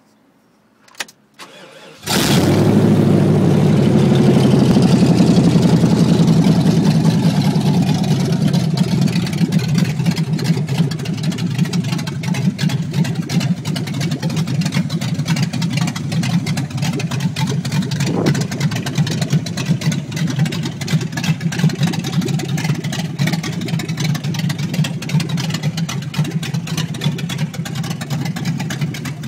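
Swapped-in LT1 5.7-litre V8 in a 1985 GMC Jimmy, running on open headers with no exhaust and an aftermarket CC502 cam, starting after a click and a short crank about two seconds in. It catches at a loud fast idle that settles after several seconds into a steady, rapidly pulsing idle.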